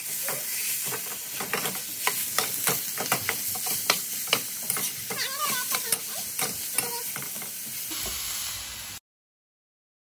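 Minced pork sizzling as it fries in a hot wok, with frequent clicks and scrapes of metal tongs breaking up the meat against the pan. The sound cuts off suddenly about nine seconds in.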